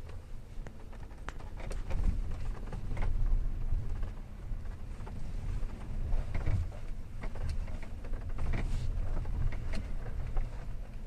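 2016 Hyundai Tucson (TL) driving over uneven road: a steady low rumble broken by many short knocks and creaks over the bumps. This is the squeak and knock over bumps that the owner is trying to trace.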